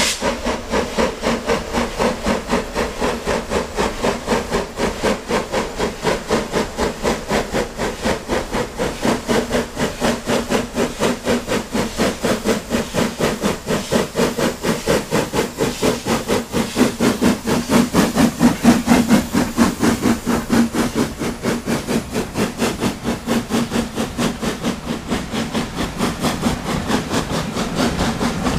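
S&DJR 7F 2-8-0 steam locomotive No. 53808 working hard away from a station, its exhaust beating at a steady rhythm of about four to five chuffs a second, with steam hiss.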